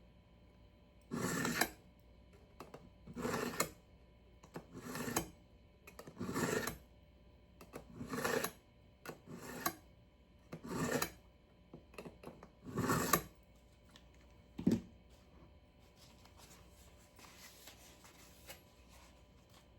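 A Santoku kitchen knife drawn repeatedly across a knife sharpener: about eight sharpening strokes, roughly one every one and a half to two seconds, then a shorter, weaker stroke and faint scraping near the end.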